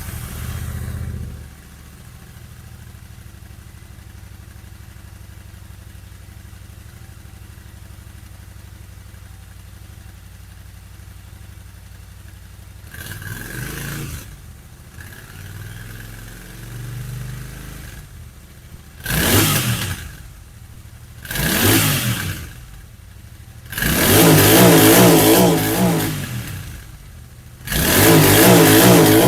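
Royal Enfield Interceptor 650's 648 cc parallel-twin through its stock exhaust: it catches at the start, settles into a steady idle, then is revved in short throttle blips that grow harder, ending with two longer, louder revs.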